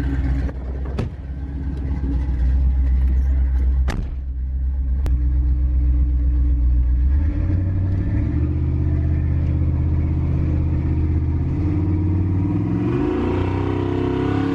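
Carbureted V8 pickup engine pulling on the road with its freshly re-jetted carburetor. Its pitch holds steady, then climbs as it accelerates about halfway through and again near the end. A few sharp clicks sound in the first few seconds.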